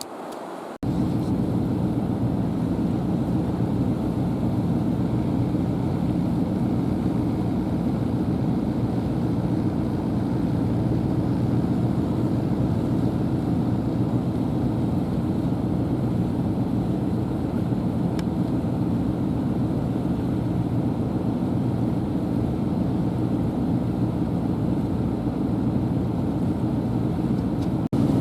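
A vehicle driving along, a steady low engine and road noise that cuts in suddenly about a second in.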